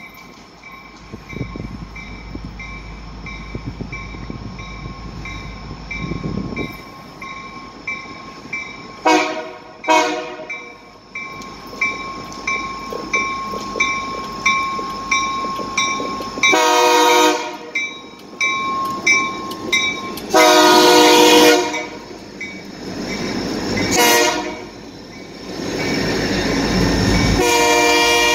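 Diesel freight locomotives approaching and passing at the head of a coal train. A bell rings steadily at about two strokes a second. The horn gives two short toots about nine seconds in, then sounds long, long, short, long, the grade-crossing signal. The engines' rumble grows loud as the locomotives pass close.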